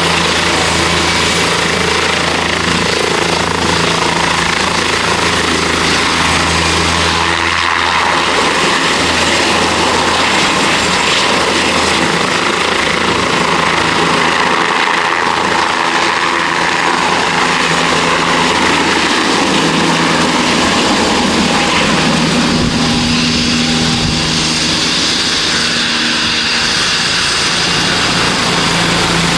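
Bell 407 single-engine helicopter, its Rolls-Royce 250 turbine and four-blade rotor running loud and steady on its approach, with a thin high turbine whine over the rotor noise. The tone changes about three quarters of the way through.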